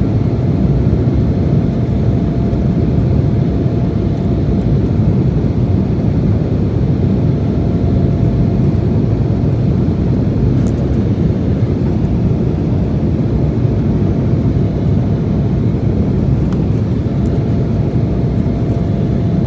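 Steady cabin noise of an Embraer E175 airliner under way: the deep, even rush of its two GE CF34-8E5 turbofans and the airflow, with a faint steady whine above it.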